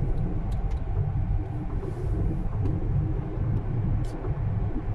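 A car driving, a steady low road-and-engine rumble with a few faint ticks.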